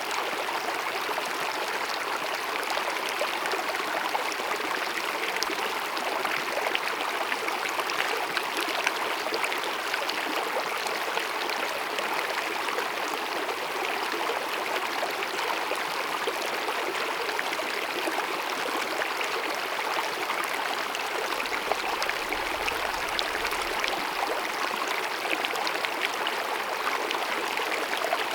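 Small mountain meadow stream babbling and splashing steadily over rocks.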